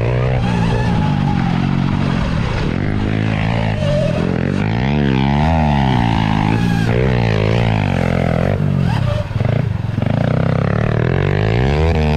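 Honda CRF110 pit bike's small single-cylinder four-stroke engine revving hard, its pitch climbing and dropping again and again as it is ridden through the gears around the track.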